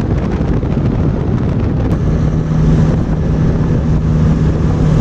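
Wind noise on the microphone and engine and road noise in an open-top convertible sports car cruising along. From about two seconds in, a steady low engine note comes through under the wind.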